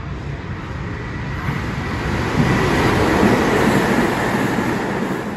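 Hanshin Railway train running along the platform: the rumble and rush of its wheels on the rails build over the first couple of seconds and stay loud.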